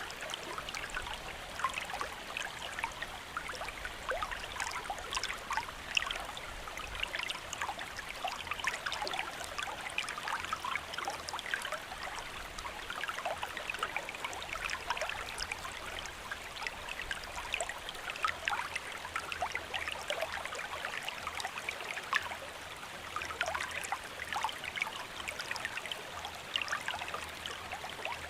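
Rain falling steadily: an even hiss dotted with a dense patter of individual drops.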